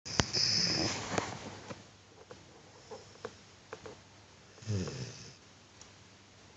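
A pet dog snoring in its sleep: a loud, breathy snore in the first second or so and a second, lower snore about five seconds in, with a few faint clicks between.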